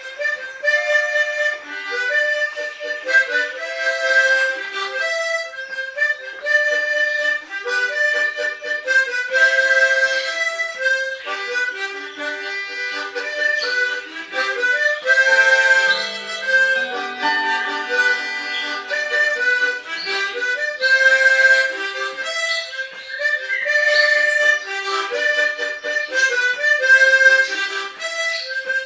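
Harmonica playing a tune of quick single notes and chords, starting right at the beginning. About halfway through it drops into a stretch of lower notes.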